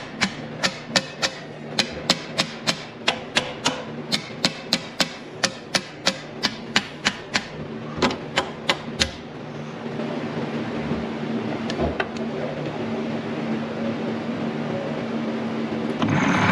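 Sharp, evenly spaced taps, about three a second, over a steady mechanical hum; the tapping stops about nine seconds in and the hum carries on.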